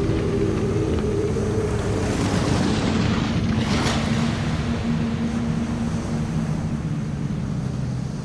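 Sea wash and water noise under a low, held drone of tones that step down in pitch, with one brief whoosh about three and a half seconds in.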